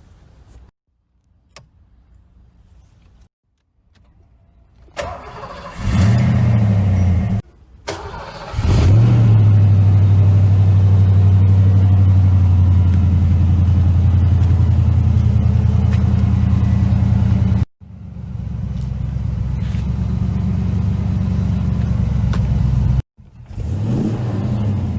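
Car engine starting up with a quick rev that rises and settles, then running at a steady fast idle. The sound cuts off abruptly a few times and comes back each time with another short rev.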